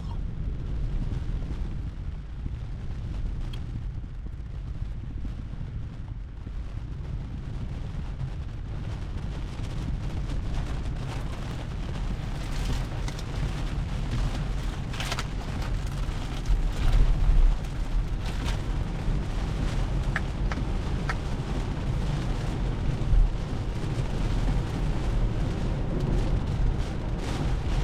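Cabin noise of a Tesla Model 3, an electric car, driving at highway speed in heavy rain: a steady low rumble of tyres on the wet road, with scattered sharp knocks and a few louder thumps.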